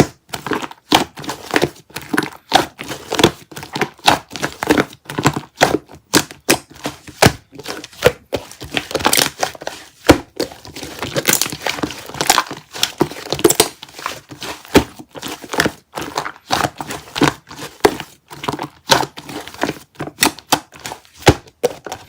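Fluffy slime being squished and worked by hand, giving a dense run of irregular crackles, clicks and small pops as air pockets in it burst.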